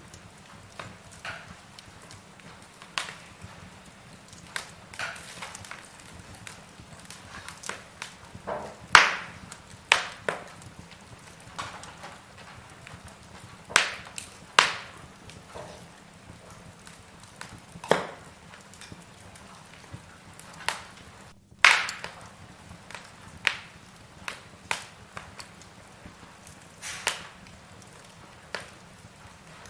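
Log fire in a fireplace crackling, with irregular sharp pops and snaps from the burning wood over a faint steady hiss.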